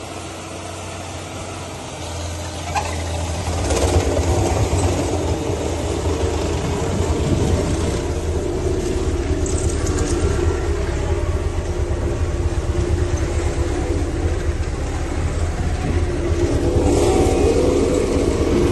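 Road roller's heavy engine running with a steady low rumble, growing louder about two and four seconds in and again near the end as it works over the seized bike silencers.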